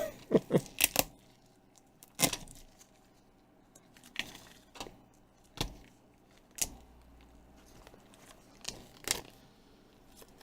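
Thin plastic protective screen film crinkling and being peeled from adhesive, heard as a quick run of crackles about a second long, then single sharp crinkles and clicks every second or two.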